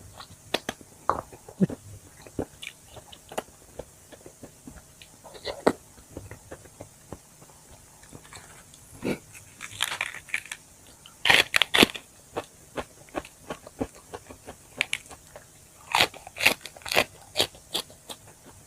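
A person biting and chewing chicken wings, with many sharp crunches. The crunches come in denser bursts about halfway through and again near the end.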